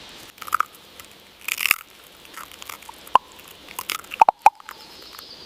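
A squirrel gnawing and cracking a nut shell: irregular sharp crunches and clicks, with a louder cluster of crunches about one and a half seconds in and another near the end.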